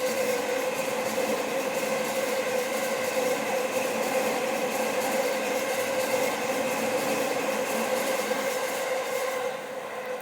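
Chuo Line electric train passing close by: steady rail and wheel noise with a sustained whine made of several tones, dropping away near the end.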